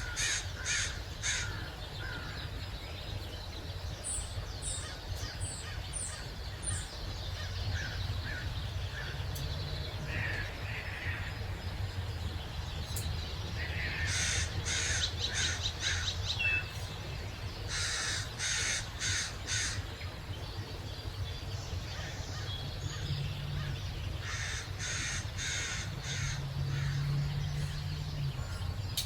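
Crows cawing in bouts of four to six quick harsh calls, repeated several times. A smaller bird gives a run of short high chirps about four to seven seconds in, over a steady low rumble.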